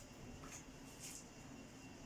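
Near silence: room tone with a faint steady hum and a couple of faint light clicks, about half a second in and about a second in.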